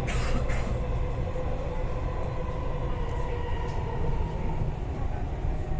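Dubai Metro train running between stations: a steady low rumble with a faint whine that slowly drops in pitch.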